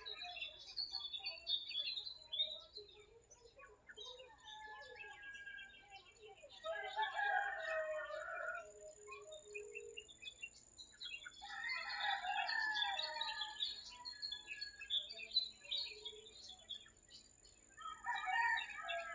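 A rooster crowing three times, each crow about two seconds long: about a third of the way in, again past the middle, and once more near the end. Small birds chirp throughout.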